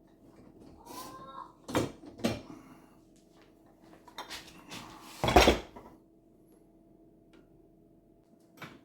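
Dishwasher racks rattling and clattering as they are slid out of the tub, a few knocks followed by one loud clatter about five seconds in.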